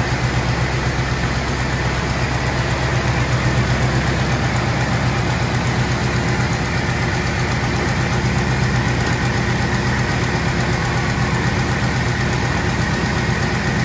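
1974 AMC Javelin's V8 engine idling steadily, with no revving.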